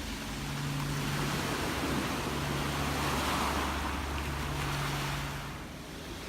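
Gentle ocean waves washing ashore: one swell of surf builds to its loudest midway and eases off near the end, over a steady low rumble.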